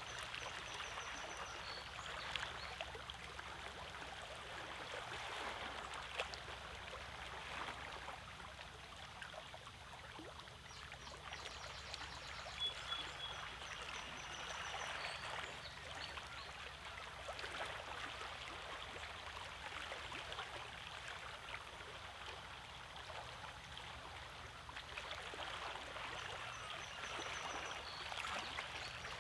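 Lake water lapping and trickling among shore rocks: a steady wash with many small irregular splashes.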